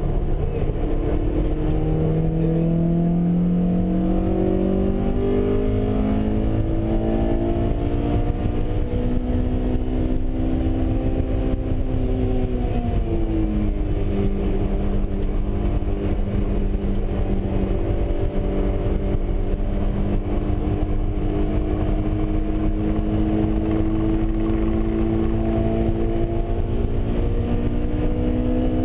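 Honda S2000's 2.0-litre four-cylinder engine heard from inside the cabin under load on track, its pitch climbing steadily, dropping sharply about halfway through, then rising slowly again. A steady low rumble runs underneath.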